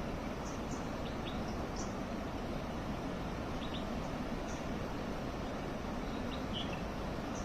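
Steady rushing noise of a waterfall, with several short, high bird chirps scattered over it.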